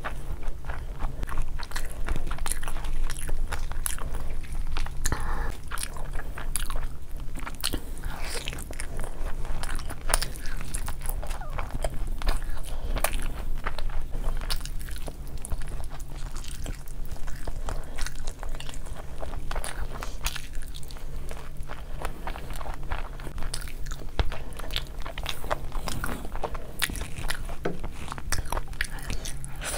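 Close-miked chewing and biting as a person eats chicken biryani and whole chicken curry by hand: wet mouth sounds and soft crunches, with many short clicks throughout, over a faint steady low hum.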